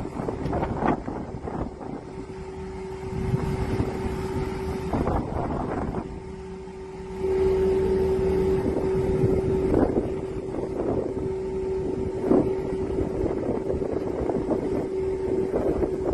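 Wind buffeting the microphone, with a steady hum held on one pitch from about two seconds in, growing louder about seven seconds in.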